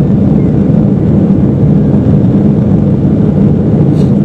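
Steady low roar of an airliner's engines and airflow, heard inside the passenger cabin in flight.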